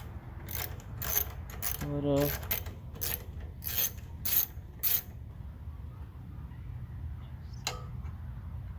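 Sharp metallic clicks and clinks of hand tools and metal parts while a small push-mower engine is partly taken apart, about one or two a second for the first half, then one more click near the end, over a low steady hum.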